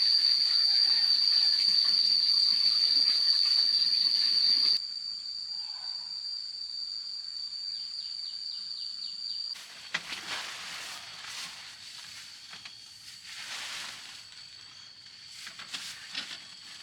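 Countryside ambience with a steady, high-pitched insect drone throughout. For the first few seconds running water hisses loudly under it. After two abrupt cuts, irregular light knocks and rustling come in near the end.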